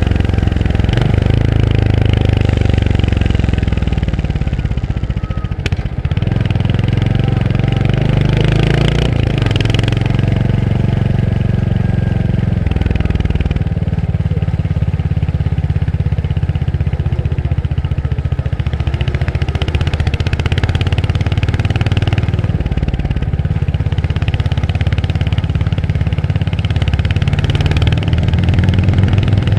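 Royal Enfield Hunter 350's single-cylinder engine running under way, heard from on the bike. The engine note drops briefly about five seconds in, with a sharp click, then pulls again, and settles to a lower, steadier note around halfway through.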